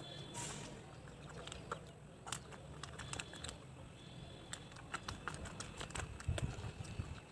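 A person chewing food, with scattered small mouth clicks and smacks over a faint low hum.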